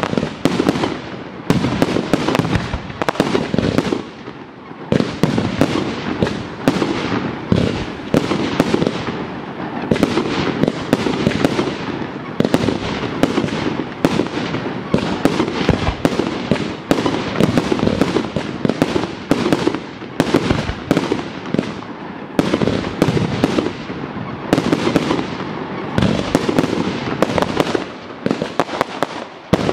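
Professional fireworks display firing in rapid succession: a dense, continuous run of sharp launch reports and bursts from rising tailed comets and small aerial shells, with a short lull about four seconds in.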